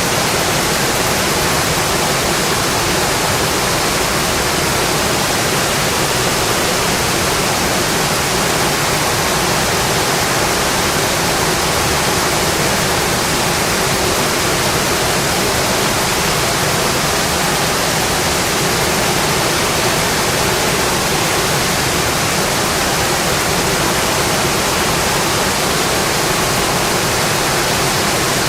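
Steady heavy rain on a metal roof, a dense even hiss with no letup.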